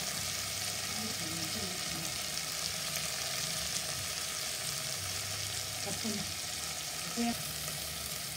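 Sliced small onions, tomato and green chilies sizzling in hot oil in a nonstick pot: a steady frying hiss as the onions and tomatoes soften. A brief louder sound comes about seven seconds in.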